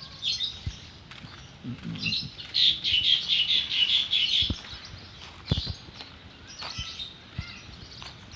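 Small birds chirping, with a dense run of chirps in the middle and a few sharp knocks.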